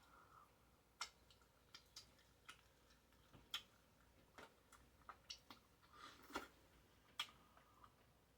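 Faint mouth sounds of chewing a bacon cheeseburger close to the microphone: a dozen or so sharp wet clicks and smacks at irregular intervals, with a short longer smack a little after six seconds.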